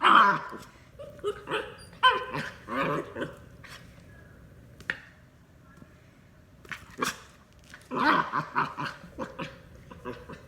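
A dog making odd vocal noises in short bursts of bending pitched calls, with a lull in the middle and a single sharp click about five seconds in.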